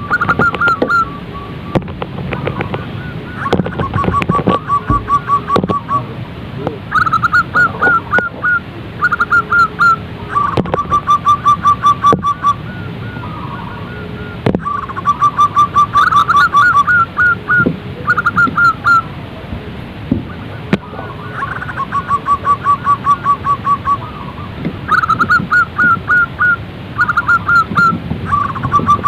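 Zebra doves singing: repeated phrases of a few quick cooing notes, each running into a fast, even trill, over and over. Faint high chirps from smaller birds sound in the background.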